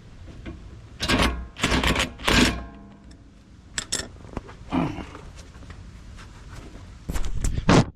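Wrench turning a rusted sway-bar stabilizer link nut: three loud bursts of metal-on-metal scraping with a faint squeal, a few sharp clinks a little later, and another scraping burst near the end.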